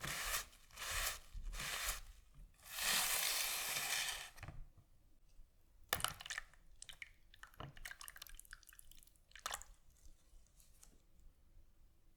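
Hand-tool work on metal: a few short rasping strokes, then one longer rasp lasting about two seconds, then scattered light clicks and taps.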